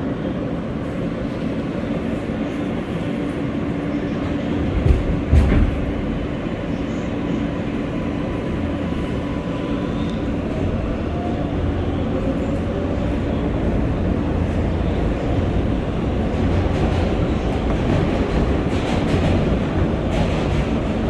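R143 subway train running between stations, heard from inside the car as a steady rumble of wheels and running gear. There is one loud knock about five seconds in, and the noise builds slightly toward the end.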